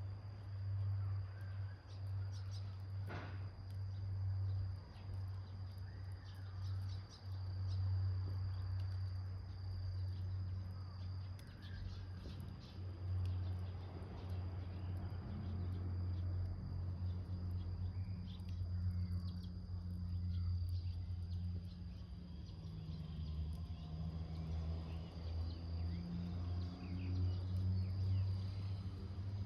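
Small wood fire in a milk-can stove burning with scattered light crackles, over a steady high insect trill and a low hum.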